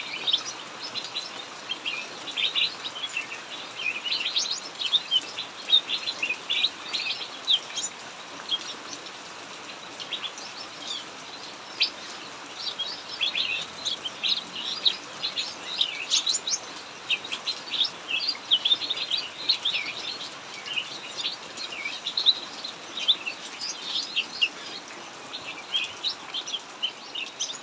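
Cucak mini birds chirping and singing nonstop, a quick string of short high notes, over the steady hiss of heavy rain.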